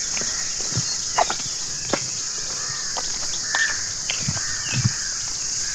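Steady high-pitched drone of insects in forest, with short bird chirps now and then and a few footsteps on the trail, the heaviest about four to five seconds in.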